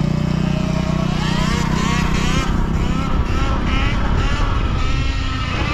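Electric dirt bike motors whining, several overlapping whines rising and falling in pitch as the riders throttle up and back off. A steady low drone under them fades about halfway through.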